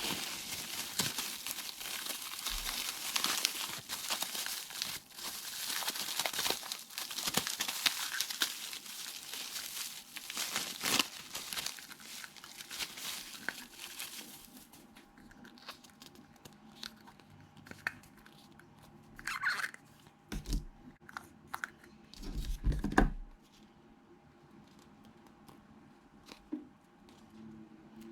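Plastic packaging crinkling and tearing as it is handled. About halfway through the crinkling stops and gives way to scattered clicks and knocks, with a short cluster of heavier knocks near the end.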